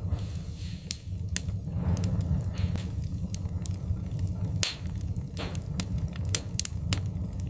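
Wood fire crackling in a fireplace: irregular sharp pops and snaps over a steady low rumble, with a few brief hisses.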